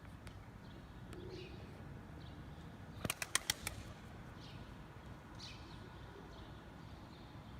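Birds chirping faintly with short, high, scattered calls. About three seconds in comes a quick run of about five sharp clicks, the loudest sound.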